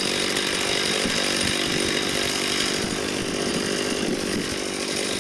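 Chainsaw running steadily, cutting into wood.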